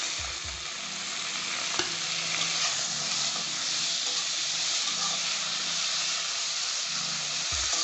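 Sliced tomato sizzling in hot oil in a kadai of fried onion and spice masala, with a steel spatula stirring and scraping through it. A single sharp tap of the spatula on the pan comes about two seconds in.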